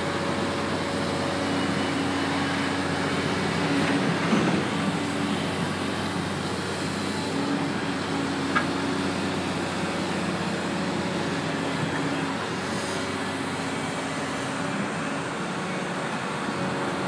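Diesel engine of a construction digger running steadily at work, with a brief click about halfway through.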